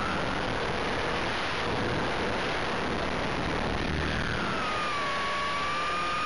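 RC helicopter's motor and rotors heard from its own onboard camera: a steady whine over a constant rush of air. The whine rises briefly at the start, is lost under the rushing noise, then comes back about four seconds in and falls to a steady pitch.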